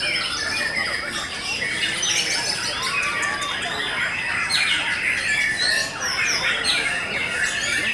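White-rumped shamas (murai batu) singing many at once, a dense, continuous tangle of overlapping whistles, chirps and harsh squawks.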